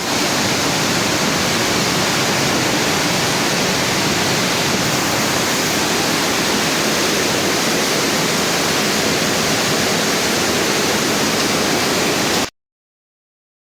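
Flash-flooded underground river rushing through a cave: a loud, steady roar of fast water that cuts off suddenly near the end.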